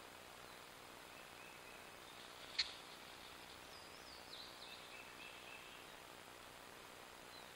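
Faint high bird calls, short chirping notes and a falling whistle, over a steady hiss, with one sharp click about two and a half seconds in.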